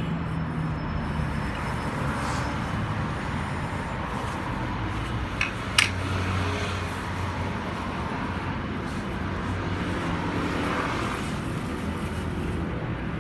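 Steady road-traffic noise, with a single sharp click a little under halfway through.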